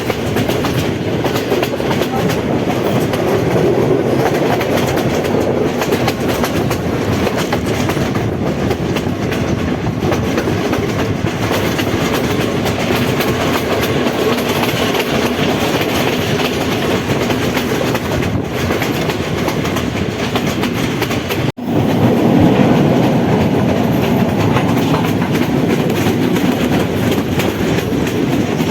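Passenger train running along the track, a steady rumble with wheels clattering over the rail joints. The sound cuts out for an instant about three-quarters of the way through, then goes on slightly louder.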